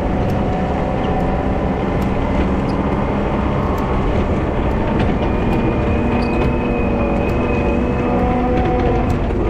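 Volvo wheel loader's diesel engine running steadily while plowing snow, with a faint high whine from about halfway through until shortly before the end.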